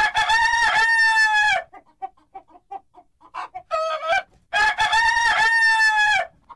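Rooster crowing twice, each crow a long held call of nearly two seconds, with short clucks between the crows.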